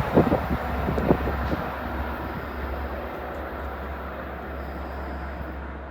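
Train passing, with several sharp clacks from the wheels in the first second or so, then a steady rumble that fades as the train moves away.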